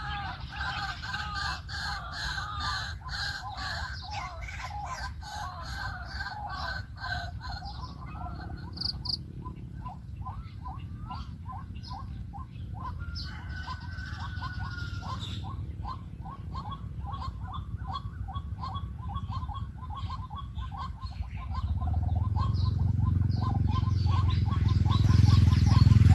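White-breasted waterhen calling: overlapping harsh calls at first, then a long, even series of repeated 'kwak' notes at about three a second. A low rumble grows louder over the last few seconds.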